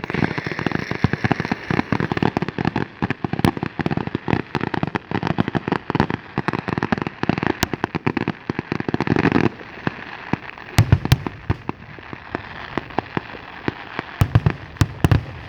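Fireworks going off: a dense, rapid crackle of many reports for about nine seconds, then it thins out to a few separate heavy booms, with more booms near the end.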